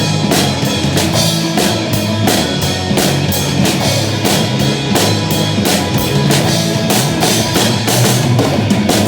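Drum kit played to a rock backing track with bass and guitar, with a steady beat of kick drum, snare and cymbal hits.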